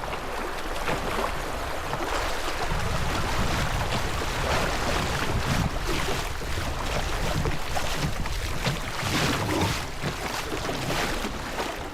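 Fast river rapids rushing and splashing around a kayak, with irregular louder splashes throughout and wind rumbling on the microphone.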